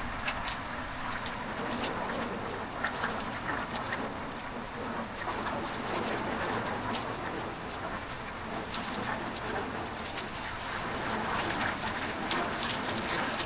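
Heavy rain falling steadily, with many sharp close drop ticks on nearby surfaces.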